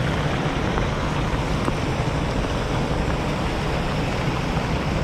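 Heavy rain falling steadily, heard as an even hiss.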